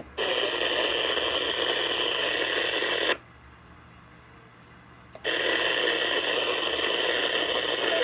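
Radio receiver's speaker hissing with static as a repeater transmission comes through. The hiss cuts off about three seconds in and returns about two seconds later.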